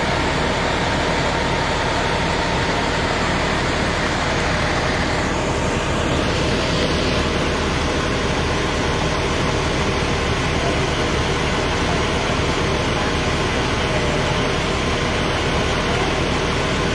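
Steady vehicle engine noise: a constant rumble that holds an even level throughout.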